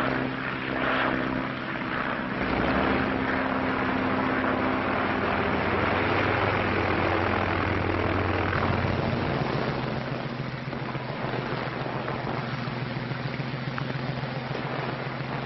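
Propeller airplane engines droning steadily on an old film soundtrack. About nine seconds in, the engine note thins and gets a little quieter.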